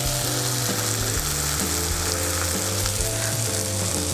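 Stir-fry of green beans and scrambled egg sizzling steadily in oil in a wok over a low flame, with the spatula at rest and no stirring.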